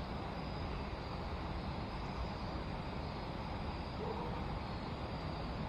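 Steady rushing of river water over the rocks and rapids below a dam, a constant even hiss.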